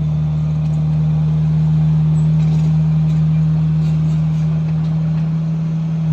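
Komatsu bulldozer's diesel engine running steadily with a deep, even drone.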